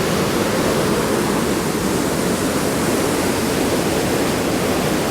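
Powerful waterfall: heavy, steady rushing of falling water, close by and loud.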